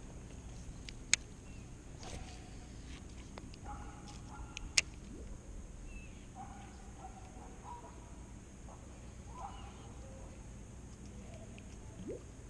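Faint, short bird calls over a quiet outdoor background, with two sharp clicks, one about a second in and one near five seconds in.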